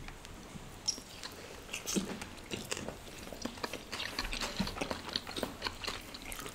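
Close-miked chewing of a piece of chilli cheese paneer, a run of soft irregular clicks and smacks from the mouth.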